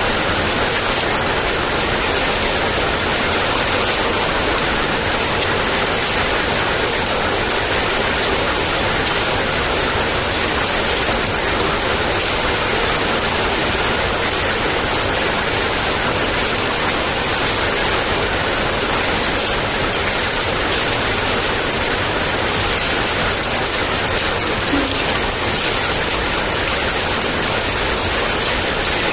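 Heavy rain in a steady downpour, an even hiss of drops with no let-up.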